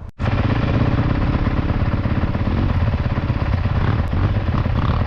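An off-road motorcycle engine running steadily at low revs, close by, after a brief break in the sound right at the start.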